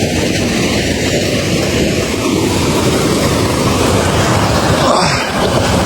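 Small mountain waterfall and stream, water rushing steadily and loudly.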